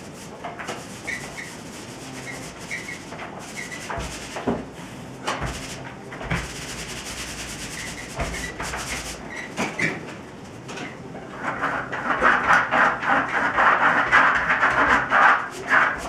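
A tool scraping over decorative plaster on a wall: a quieter stretch of scattered light scrapes and small squeaks, then from about eleven seconds in, loud quick back-and-forth scraping strokes, about three or four a second.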